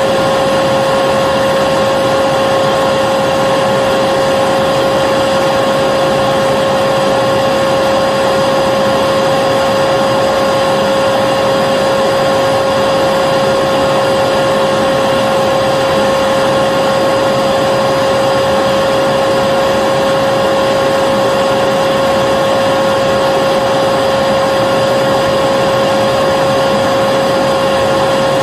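Vacuum cleaner running steadily, a loud, even whirring hiss with a constant motor whine that does not change.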